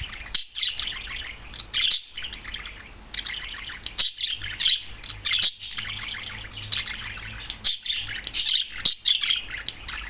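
Adult male budgerigar (light green opaline) singing: a continuous chattering warble with many sharp clicks and chirps.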